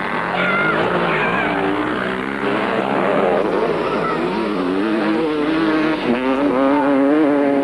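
Several motocross motorcycles racing, their engines revving up and down with overlapping engine notes; one engine holds a steadier note near the end.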